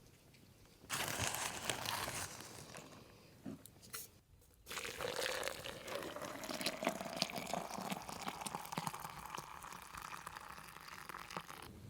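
Food sizzling and crackling in a hot frying pan. It starts suddenly about a second in, breaks off briefly around four seconds, then comes back and keeps going.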